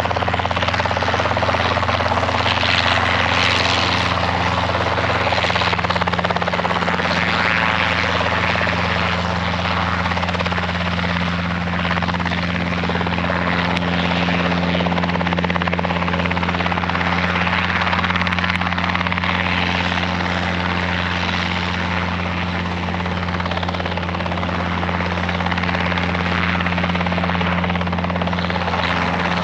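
A Robinson piston-engined helicopter running steadily, with its rotor and engine giving a constant low hum over a loud, even rush.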